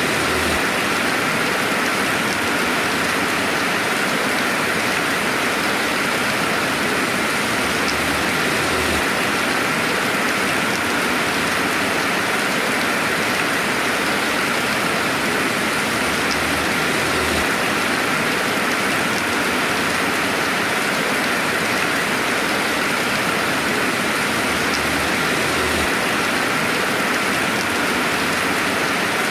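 Steady rainfall ambience, an even hiss of rain with no thunder and no changes.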